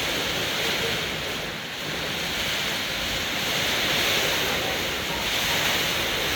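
Heavy rain pouring down in a strong windy storm: a steady, dense hiss that swells and eases a little.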